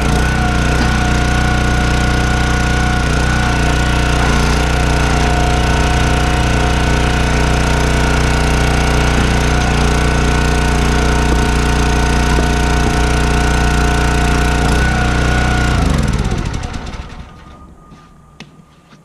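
An engine running steadily at a constant speed, then shut off about sixteen seconds in, its pitch dropping as it winds down to a stop. A few light clicks follow.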